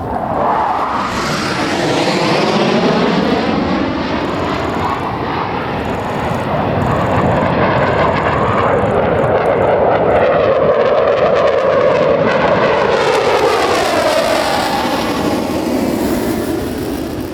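Blue Angels F/A-18 Super Hornet jets passing low overhead: a loud jet roar that comes in suddenly, sweeps in pitch as it passes, swells again in the middle and eases off near the end.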